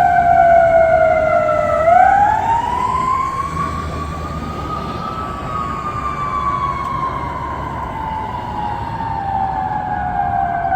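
Fire truck siren on a slow wail. The tone falls, sweeps back up about two seconds in, peaks around five seconds, then slowly winds down again, over a low rumble of the truck on the road.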